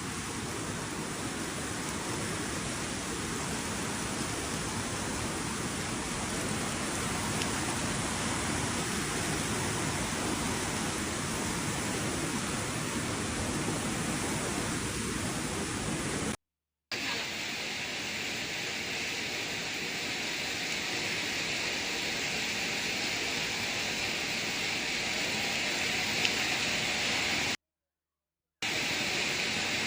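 Steady rushing hiss of heavy rain and floodwater, with no distinct events. It cuts out abruptly twice, briefly after about sixteen seconds and again near the end. After the first break it sounds brighter and hissier.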